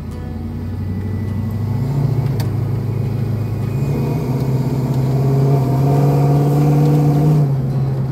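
LS-swapped V8 pulling a car along a gravel road, on a rough tune. Its note steps up about two seconds in, climbs steadily as the car gathers speed, then drops just before the end.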